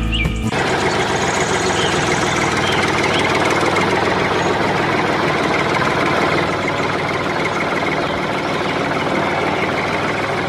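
A motor or engine running steadily, a dense even noise that starts abruptly about half a second in.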